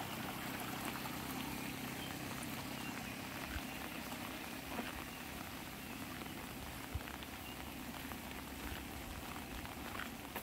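Light rain falling, a steady hiss with scattered sharp ticks of drops striking an umbrella overhead.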